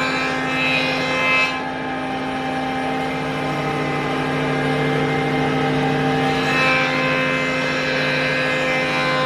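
A woodworking machine's electric motor running steadily with a constant hum, its higher whine swelling briefly near the start and again about seven seconds in, as if under changing load.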